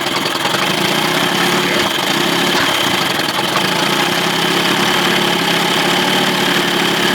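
2000 Johnson 25 hp outboard motor running steadily near idle while its carburetor mixture screw is turned in; it has begun to sneeze a little, the sign of a mixture going lean.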